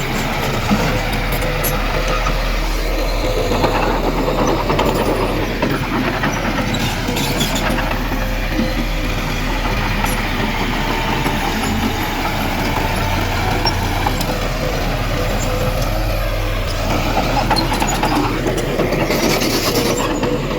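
Heavy diesel earthmoving machinery running steadily, with a constant whine and a few light clanks.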